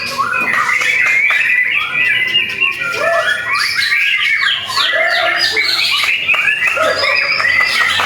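White-rumped shama (murai batu) singing a continuous, rapid song of varied whistled and chattering notes.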